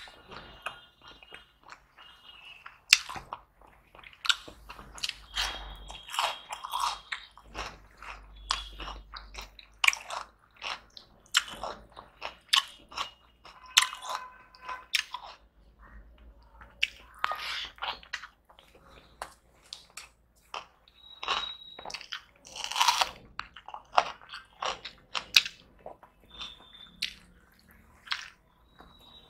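Close-miked eating by hand: wet chewing with irregular crunchy bites of raw red onion and mouthfuls of turmeric rice.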